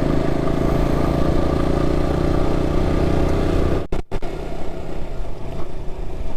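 Motorcycle engine running steadily while riding. A little over halfway through, the sound cuts out for a moment and comes back quieter.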